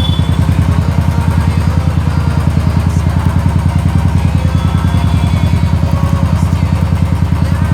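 Royal Enfield single-cylinder motorcycle engine idling steadily, its exhaust giving an even, fast pulse.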